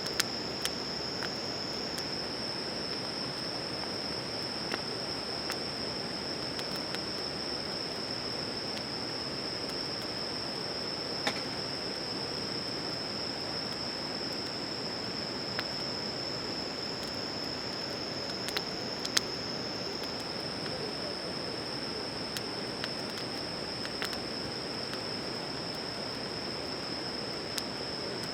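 Insects trilling steadily in one continuous high tone, over a low hiss, with scattered sharp crackles and pops from a wood campfire.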